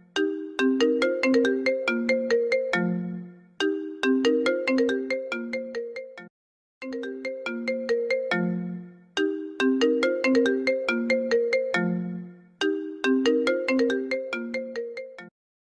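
Apple ringtone playing on a loop: a melodic phrase of quick, clear pitched notes, each phrase a few seconds long, repeating over and over with short pauses between repeats.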